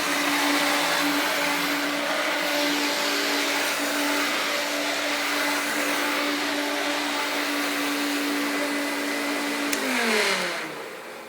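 Hoover Turbopower 1 U2198 upright vacuum cleaner running steadily with a constant motor tone. Near the end a click as it is switched off, and the motor winds down, its pitch falling and the sound fading.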